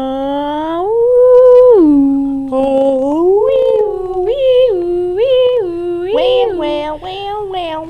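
A person's voice making a wordless humming, wailing sound. The pitch slides up about a second in and falls back, then hops up and down several times.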